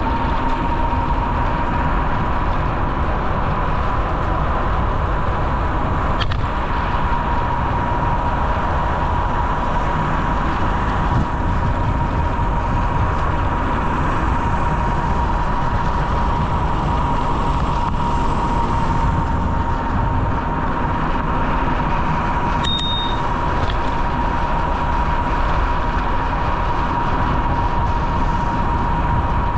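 Steady rumbling wind and rolling noise from a bicycle ride, with a constant whine throughout. A short bell-like ding sounds about 23 seconds in.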